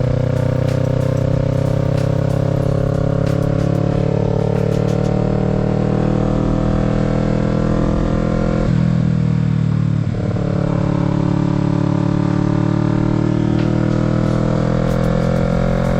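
Kawasaki Z650's parallel-twin engine pulling under steady throttle, its note rising slowly. About two-thirds of the way through it dips in a gear change, then climbs again in the next gear. A hiss of wind runs under the engine.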